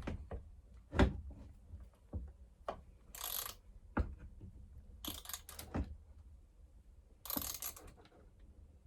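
Small metal tools and chainsaw parts clicking and knocking during hand work, with three short spells of rapid clicking, as a bolt is worked at the threads of a handlebar anti-vibration buffer.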